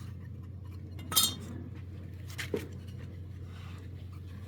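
Metal parts or tools clinking as they are handled during engine repair work: one sharp, ringing clink about a second in and a softer one about a second later, over a steady low hum.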